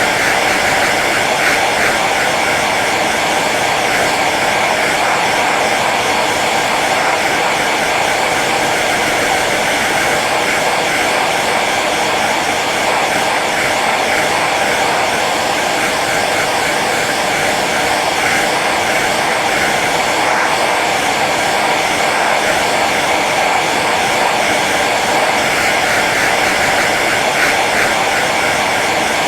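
Handheld hair dryer running steadily on its low setting: an even rush of blown air over the motor's hum.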